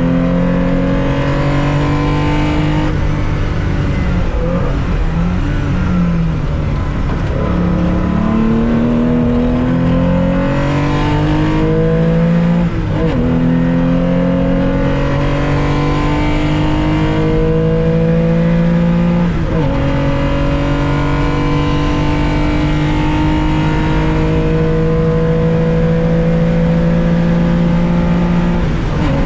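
Onboard sound of a 1965 Porsche 911's air-cooled 2.0-litre flat-six under racing load, revs climbing steadily through the gears. The pitch drops sharply at each upshift, about 13 seconds in, again about six seconds later and once more near the end, after a rougher stretch of changing revs early on.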